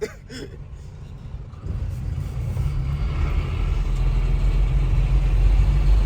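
Truck engine running in traffic, heard from inside the cab: a low, steady rumble that swells from about two seconds in and keeps getting louder as the truck pulls ahead under load.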